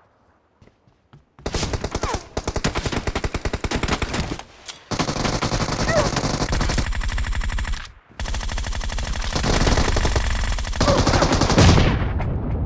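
Automatic gunfire in a shooter video game: rapid shots in long bursts, starting about a second and a half in, with short breaks near four and a half and eight seconds, trailing off near the end.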